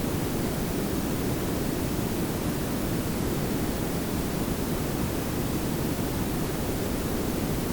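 Layered pink and brown noise: a steady, even hiss with most of its weight in a low rumble, unchanging throughout.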